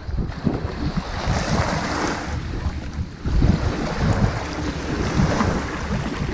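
Ocean waves washing onto a sandy beach, with two swells of surf hiss, about a second in and again around four to five seconds, over a constant low rumble. Wind rumbles on the microphone throughout.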